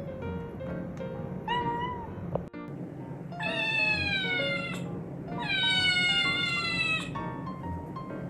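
Kitten meowing: one short meow, then two long drawn-out meows that fall in pitch, over background music.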